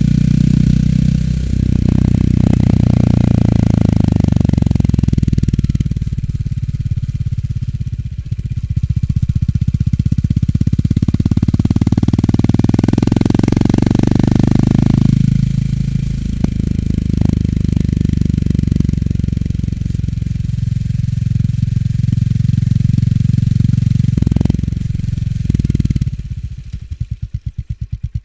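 Honda GB350 S's air-cooled single-cylinder engine through its stock muffler while riding, rising and falling in pitch with throttle changes. Near the end it drops to idle, with a slow, even thump of separate exhaust pulses.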